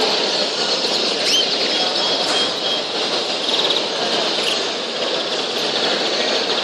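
A dense, steady chatter of many caged canaries and other cage birds chirping and twittering together, with short trills standing out here and there.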